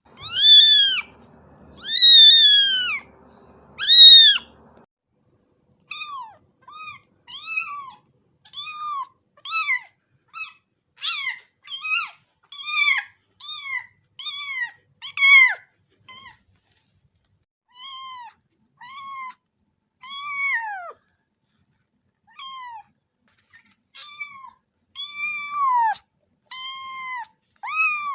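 A cat meowing over and over: three loud, drawn-out meows in the first few seconds, then a long run of shorter, softer meows at about one a second, each rising and falling in pitch.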